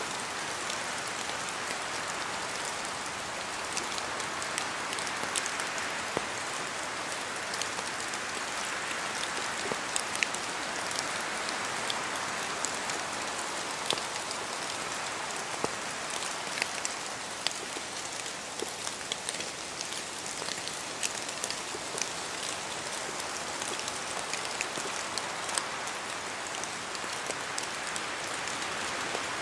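Steady rain falling in a forest, a constant hiss with many separate drops ticking sharply as they fall from the trees.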